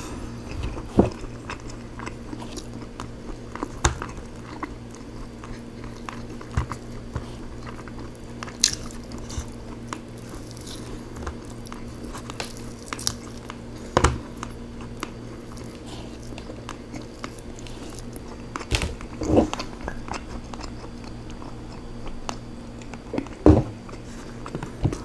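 Close-miked eating of rotisserie chicken: chewing and biting, with scattered sharp clicks and taps as fingers pull meat off the bones over a plastic takeout tray. A faint steady hum runs underneath.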